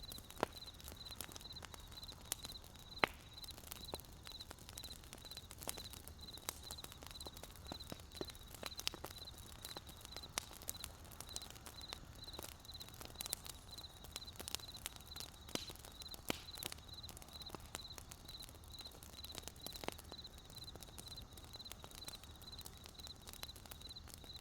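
Firewood burning in a campfire with irregular crackles and sharp pops. Under it, a cricket chirps steadily, about three chirps a second.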